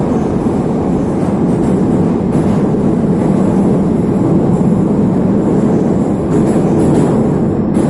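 Interior running noise of a "Neva" metro train moving through a tunnel: a loud, steady rumble of wheels and motors, with a faint high whine above it.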